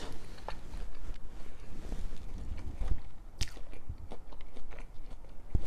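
Close-miked chewing of food, wet mouth sounds with a few sharp clicks, the loudest about three and a half seconds in.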